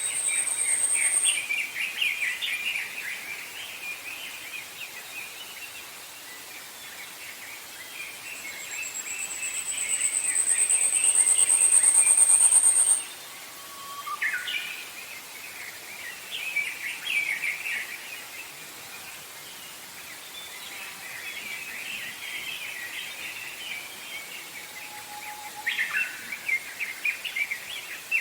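Forest birds singing: several birds chirping continuously, with a very high, thin trill that swells louder over a few seconds and cuts off suddenly, twice, the loudest sound. A few short whistled notes drop in pitch.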